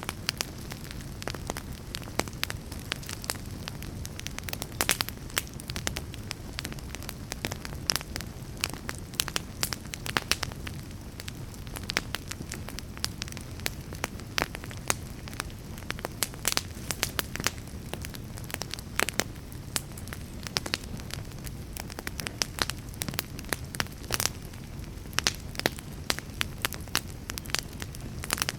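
Fire crackling: frequent, irregular sharp pops and snaps over a steady low rumble of burning.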